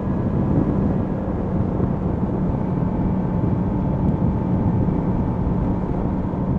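Yamaha MT-10 SP's crossplane inline-four engine running at a steady, unchanging speed while cruising, an even engine hum under a steady rush of noise.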